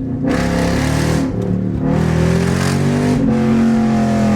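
Lexus SC400's V8 engine through an aftermarket exhaust with the catalytic converters still fitted, revving hard on first-gear pulls. The engine note climbs and breaks off sharply twice before holding steady near the end.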